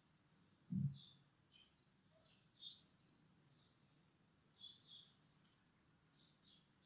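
Faint birds chirping in short, scattered calls, with one soft low thump about a second in.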